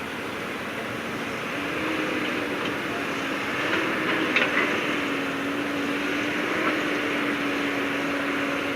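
Heavy earthmoving machine's diesel engine running steadily, with a steady hum that sets in about one and a half seconds in and a few brief knocks about halfway.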